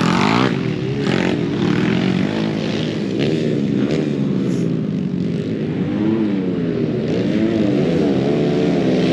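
Pit bike engines revving up and down as the bikes race past, their pitch rising and falling over and over.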